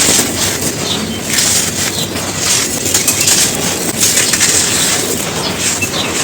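Dry, gritty cones being crushed and crumbled, a continuous dense crunching crackle with no pause.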